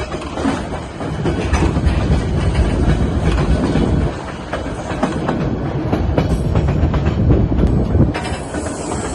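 Narrow-gauge White Pass & Yukon Route train rolling along the track: a steady rumble of the running cars with rapid wheel clatter over the rails, swelling about a second in and easing briefly around four seconds.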